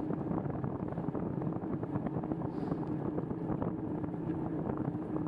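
Bicycle riding along a wet trail: steady tyre and wind noise on the microphone with a constant low hum and many small ticks.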